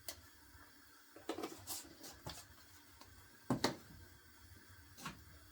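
A few light knocks and scrapes of a spoon and container as curry powder is added to a pot of hot oil, the loudest pair of knocks a little past the middle.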